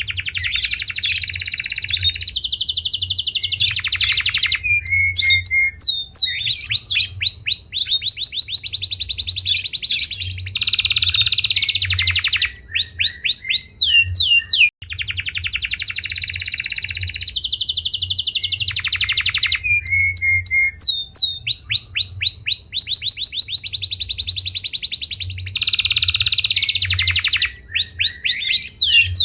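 Domestic canary singing: long, rapid trills of repeated notes alternating with quick falling whistled sweeps, with a brief break about halfway where the song starts over.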